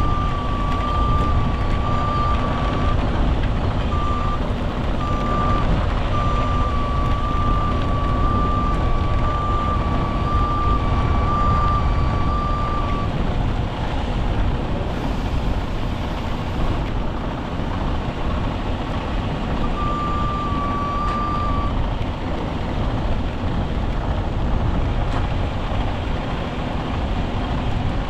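Heavy diesel truck engines running hard under a steady beeping backup alarm; the beeping stops about halfway through and comes back briefly a little later.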